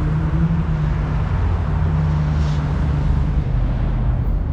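Motor vehicle engine running at low speed: a steady, deep rumble.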